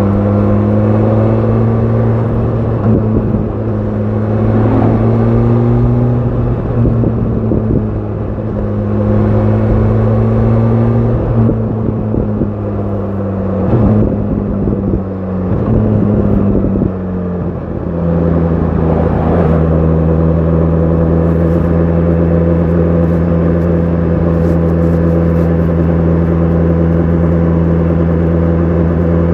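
BMW S1000 RR inline-four with an Akrapovic exhaust running at low revs, its pitch wavering gently as the throttle eases on and off, then dropping about eighteen seconds in to a steady idle.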